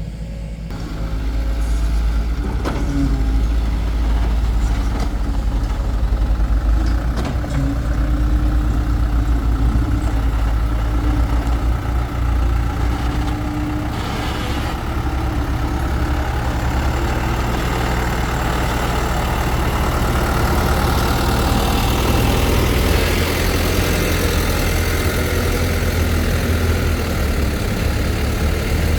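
Excavator's diesel engine running steadily, with a few sharp knocks and clanks from the machine working.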